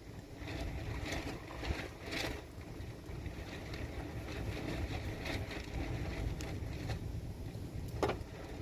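Wind buffeting the microphone in a low, steady rumble, with scattered knocks and scrapes, the sharpest about two seconds in and near the end.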